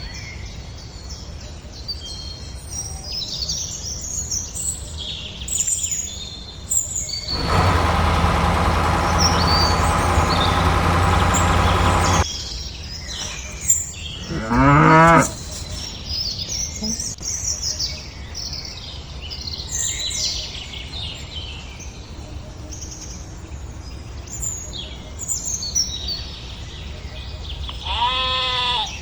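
Farm ambience of birds chirping, with an animal bleat, likely a sheep, about halfway through and another near the end. Earlier, a loud steady hum runs for about five seconds and cuts off abruptly.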